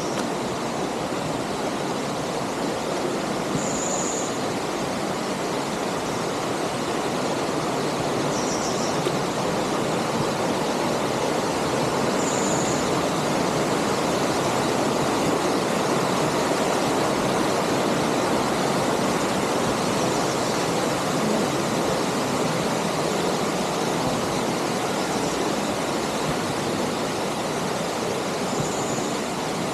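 Steady rushing of the canyon river and waterfalls, a loud even hiss of water with no engine note. A few short, high chirps are heard now and then above it.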